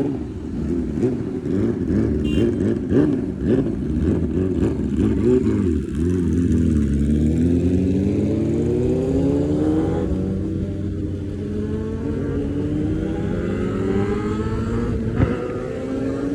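Yamaha R6 sport bike's inline-four engine revving unevenly, then pulling away with its pitch climbing through several gears, each upshift dropping the pitch before it rises again. A single sharp pop near the end.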